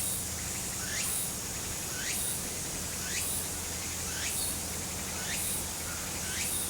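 Outdoor ambience: a steady high hiss and low hum, with a short animal call sweeping sharply upward in pitch, repeated about once a second.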